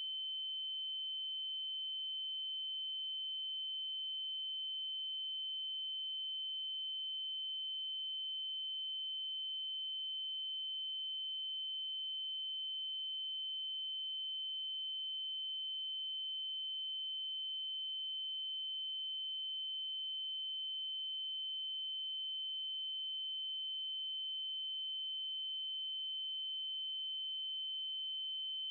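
Continuous synthetic 3072 Hz triangle-wave tone: a steady, high-pitched electronic whistle held at one pitch, with faint overtones above it and a faint tick about every five seconds.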